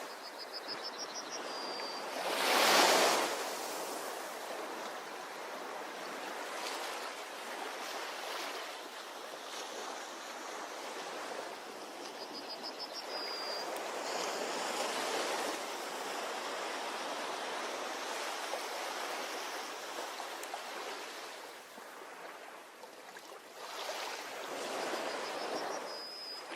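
Ocean waves washing onto a beach as a steady rushing surf, with one loud surge of a breaking wave about three seconds in. A short, high chirping call rises and then holds, and comes three times, roughly twelve seconds apart.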